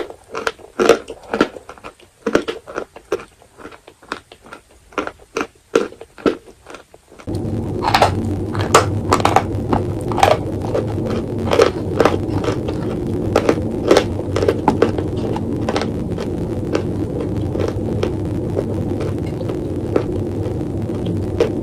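Close-up crunching and chewing of dry edible chalk: a quick run of sharp, crisp crunches. About seven seconds in, a steady low hum comes in suddenly and stays under the crunches.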